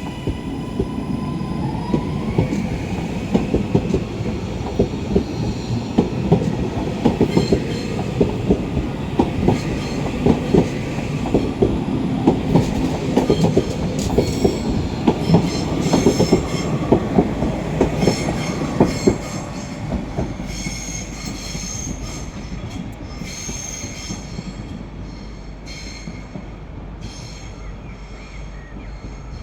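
A train moving along the track, its wheels clicking rapidly over rail joints with a thin high-pitched wheel squeal. It is loudest in the middle and dies away after about twenty seconds.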